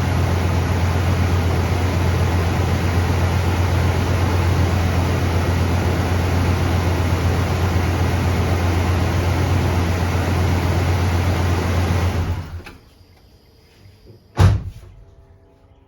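Chevrolet 350 two-barrel small-block V8 idling steadily, then shut off about twelve seconds in, dying away within half a second. About two seconds later a single loud thump, like a car door shutting.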